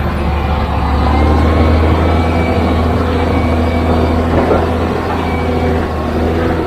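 Engine of a heavy construction machine running steadily under load, a deep, even drone.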